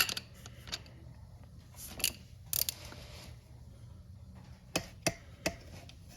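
Scattered sharp metal clicks and knocks, a handful over several seconds, from hand tools working a chain riveting tool on the master link of a motorcycle's 525 drive chain.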